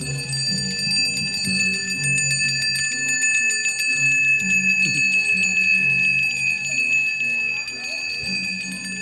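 A hand bell ringing continuously with a steady shimmering tone, over a low melody of held notes that change about twice a second.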